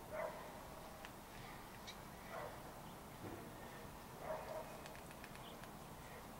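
Three short animal calls about two seconds apart, with faint high chirps or ticks between them.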